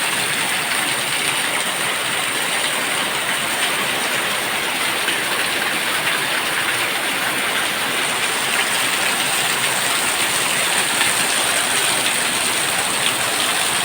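Heavy rain pouring down in a steady, dense patter and hiss that does not let up.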